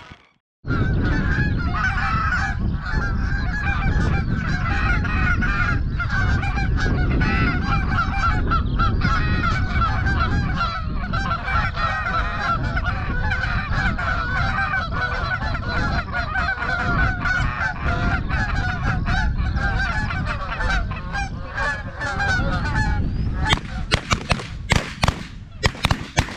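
A large flock of Canada geese honking continuously, many calls overlapping, over a steady low rumble. Near the end the honking gives way to a rapid run of sharp, loud bangs.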